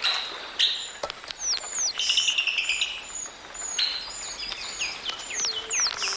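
Several small birds chirping and twittering together: rapid trills mixed with short whistled notes that fall sharply in pitch.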